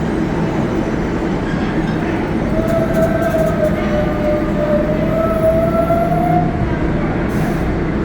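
New York City Subway 7 train running at low speed: a steady rumble of wheels and car body, joined from about two and a half to six and a half seconds in by a high wavering tone from the wheels or traction motors.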